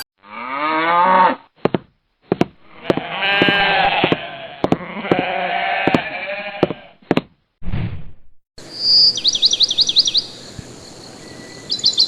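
Farm animals bleating in several long, wavering calls with a few sharp clicks between them. Near the end, quick high bird chirps come in repeated runs.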